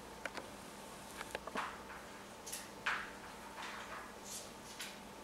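African grey parrot rummaging in his toy box: a scattering of soft clicks, taps and brief rustles as toys and bits shift about.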